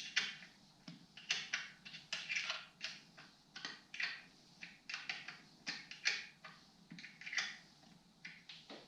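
Metal wrench clicking and clinking against small engine bolts while they are worked loose by hand: a string of irregular sharp metallic clicks.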